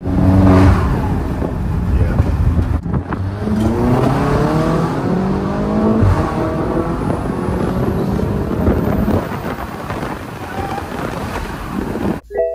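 Heavily tuned BMW SUV accelerating flat out, heard from inside the cabin: the engine note climbs, drops back at each gear change and climbs again, over road noise. The sound cuts off abruptly just before the end.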